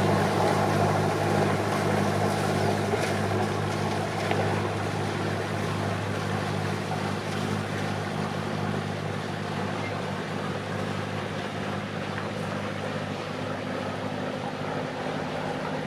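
Motor boat engine running with a steady low hum, slowly getting quieter as the boat moves away.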